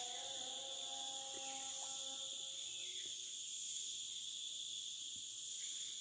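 Steady, high-pitched chorus of forest insects, an unbroken shrill drone with several pitches layered on top of each other.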